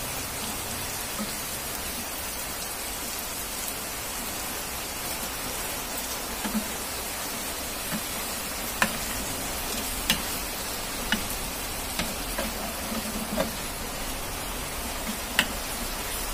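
Tofu and pork sizzling in a frying pan, a steady hiss. From about halfway a wooden spatula stirs them, knocking sharply against the pan every second or so.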